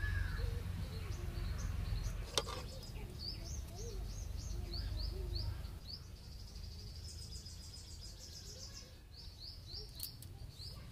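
A small bird chirps over and over in short, high, rising notes, several a second. Under it is a low rumble that drops away about halfway through, and there is one sharp click about two and a half seconds in.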